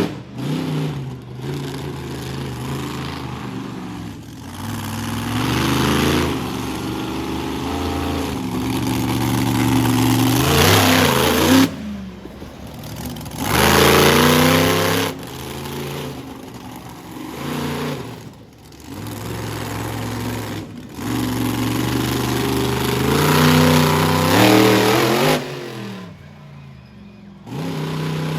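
Monster truck engine revving hard in repeated bursts, its pitch climbing under full throttle and dropping off between surges, three or four times over.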